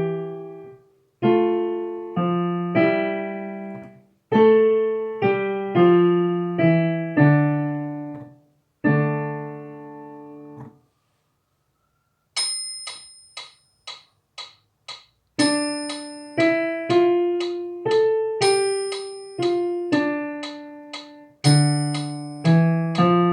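Piano playing a slow polyphonic piece in short phrases, each note struck and left to ring. The playing breaks off for a moment midway, then resumes in a higher register.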